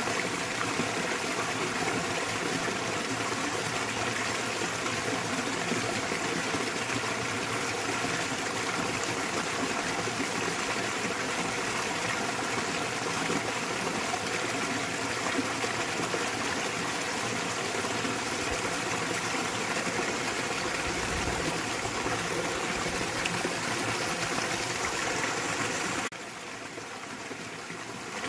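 Small waterfall pouring into a mountain stream: a steady, even rush and splash of running water. It drops a little quieter about two seconds before the end.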